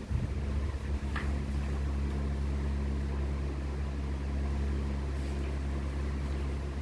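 Steady low electrical or machine hum, with a couple of faint clicks in the first second or so.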